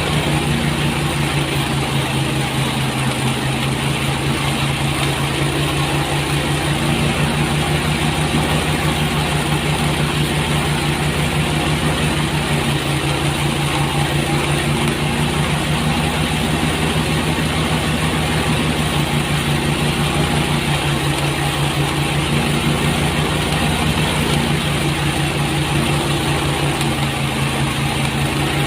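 Engine-driven rice threshing machine running steadily. The engine holds a constant speed under an even rushing noise from the machine.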